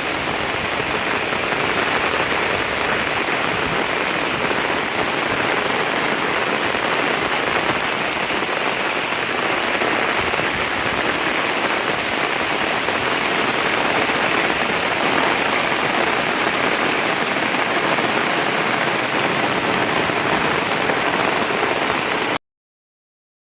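Heavy rain pouring down steadily. It stops abruptly near the end.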